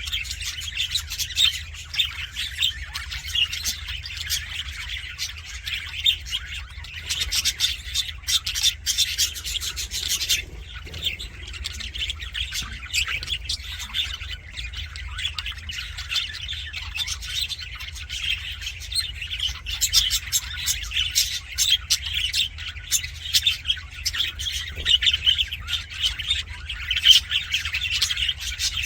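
A flock of budgerigars chattering and warbling: dense, continuous fast chirps with occasional squawks. A low steady hum lies underneath.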